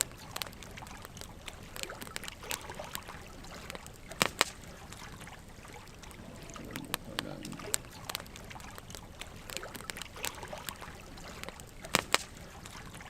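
Burning wood logs crackling and popping over a soft steady hiss of flames, with a pair of loud sharp pops about four seconds in and another pair near the end.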